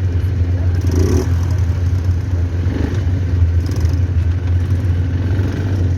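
Quad bike engine running steadily, a loud low drone heard close up from the bike.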